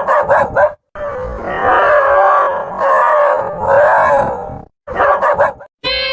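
Dogs barking in quick bursts, then a long wavering howl-like cry in three swells, then another quick run of barks. The dogs are reacting to a fake tiger. A steady pitched tone starts near the end.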